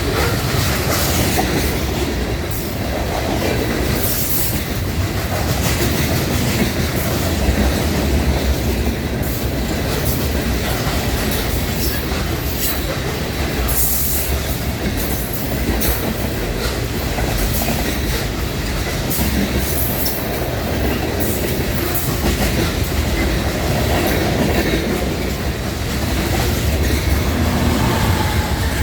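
A loaded sand train's freight cars rolling past at steady speed: a continuous heavy rumble with the clickety-clack of wheels over rail joints and brief high wheel squeals now and then.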